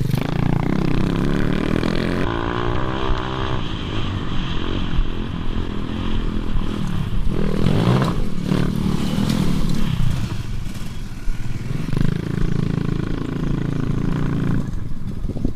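Motorbike engine running and revving, its pitch rising and falling several times.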